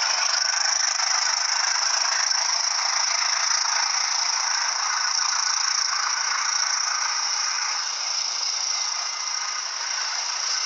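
Train running past on the track: a steady rushing, rattling noise of wheels on rails that eases slightly near the end.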